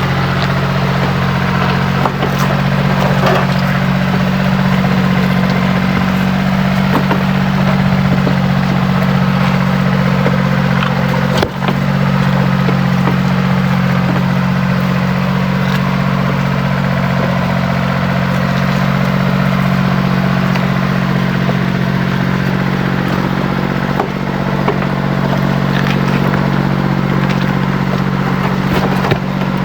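A motor running at a steady speed with a constant low hum, with scattered light clicks and knocks of work on top.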